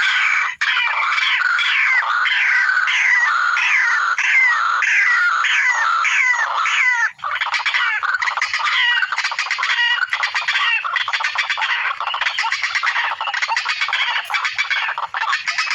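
White-breasted waterhen calls played through a Bluetooth speaker as a lure. A run of harsh, sharply falling calls about twice a second gives way, after a brief break about seven seconds in, to a faster stuttering chatter of rapid notes.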